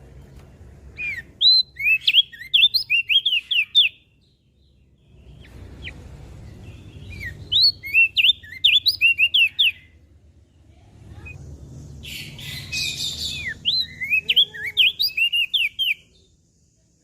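Crested white-eye (opior jambul) singing: three bursts of rapid, high chirping notes, each lasting about three seconds with short pauses between.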